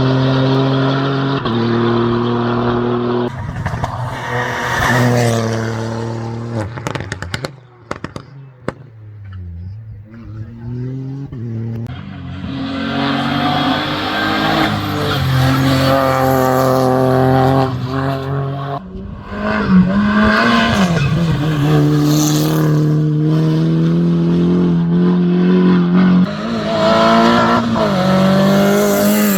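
Rally race car engine at full throttle during a hillclimb, revving high and changing gears so the pitch climbs and drops in steps. It fades to a lull about eight seconds in, then builds again and runs up through the gears.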